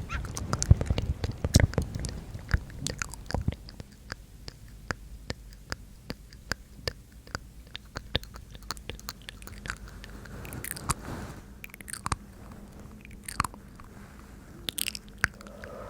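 Wet mouth sounds: a rapid, irregular series of clicks and smacks, busiest in the first few seconds and sparser after.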